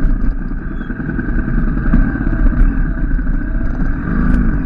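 Motorcycle engine running steadily as the bike is ridden, with a dense low rumble.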